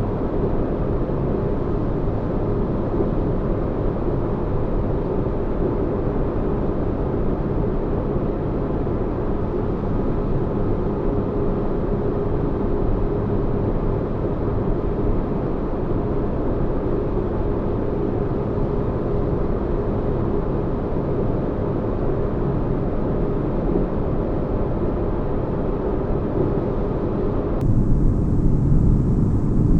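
Steady deep-bass rumble of a sci-fi spaceship-interior ambience, with a faint steady hum in it. Near the end it switches abruptly to a louder, deeper rumble with a thin high hiss on top.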